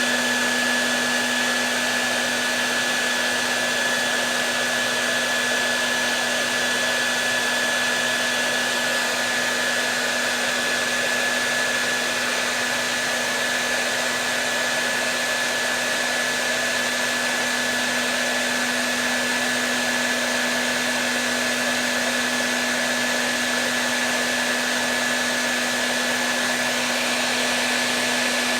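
Hair dryer running steadily: a constant rush of blown air over a steady low motor hum and a thin high whine.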